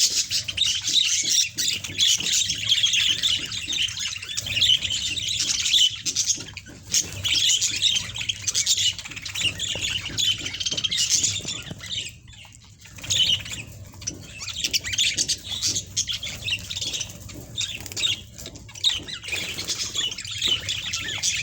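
Budgerigars chattering and squawking without pause, dense and high-pitched, with a short lull about twelve seconds in.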